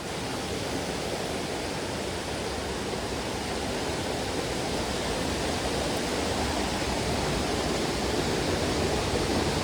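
Rushing water of a mountain stream: a steady, even hiss that grows slightly louder.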